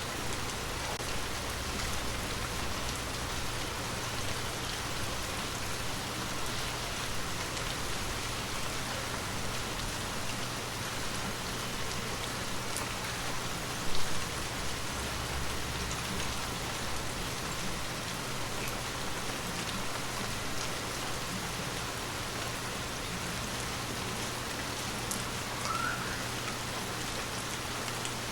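Gentle rain falling steadily, an even patter, with one louder tap about halfway through.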